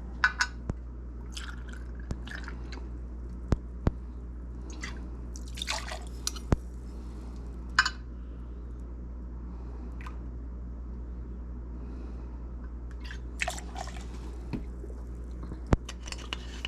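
Gin being measured out and poured into a mixing vessel: short splashes and drips of liquid with a few sharp clinks of glass and metal, over a steady low hum.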